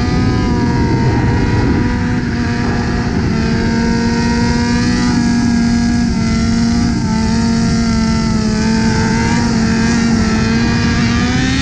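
Motorcycle engine running at steady high revs at highway speed, its pitch holding level and rising slightly near the end.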